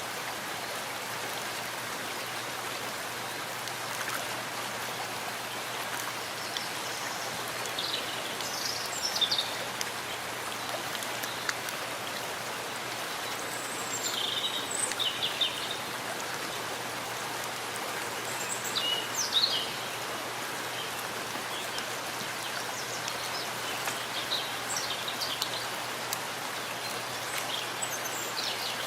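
Steady rain falling in a forest, an even hiss of drops, with a few short high bird calls now and then.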